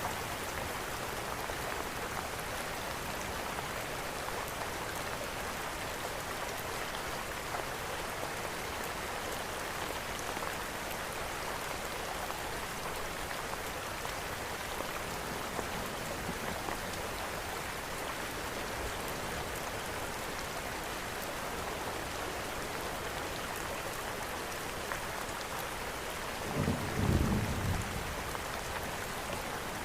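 Steady rain hiss mixed with a fireplace's crackle, heard as faint scattered ticks. A short low rumble rises briefly near the end.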